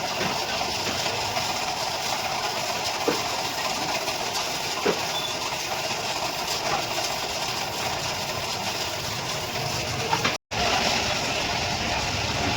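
New Holland 45 HP tractor's diesel engine running steadily, with a couple of light knocks about three and five seconds in. The sound drops out for a split second near the end.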